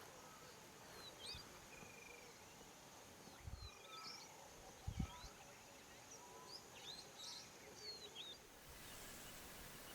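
Faint bird calls: many short chirps and whistles from several birds, over a quiet background hiss, with two soft low thumps around the middle.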